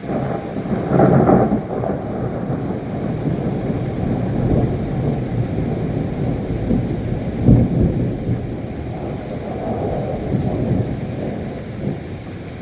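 Thunderstorm: rolling thunder rumbling over heavy rain. It comes in suddenly, swells loudest about a second in and again a little past halfway, then eases off.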